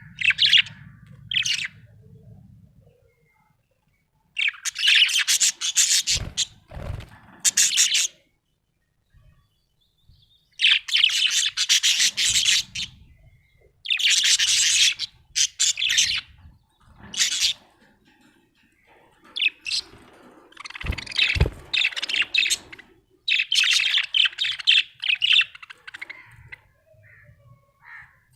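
Budgerigar chirping and warbling in bursts of a few seconds at a time, separated by short pauses. A couple of brief low thumps come in among the chirping.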